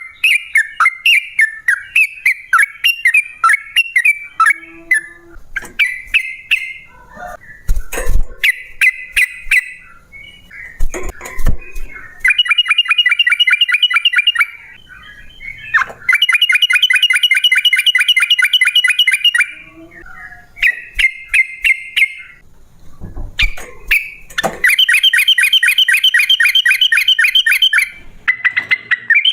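Yellow-vented bulbul (trucukan) singing: loud bursts of quick chattering notes broken by three long rolling trills of rapid repeated notes, the long 'ropel' call used to provoke other bulbuls into answering. Two low thumps sound in the first half.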